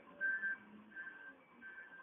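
Vehicle reversing alarm: a high single-pitch beep repeating about every 0.6 s, three beeps that grow fainter.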